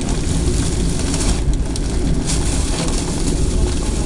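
A moving train heard from inside the carriage: a steady, loud low rumble of the wheels running on the rails.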